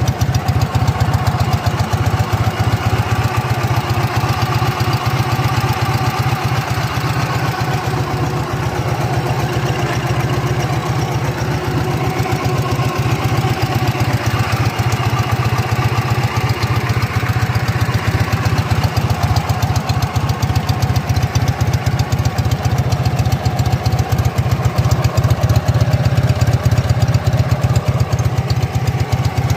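Ural motorcycle's air-cooled flat-twin engine idling steadily, a loud, even run of firing pulses.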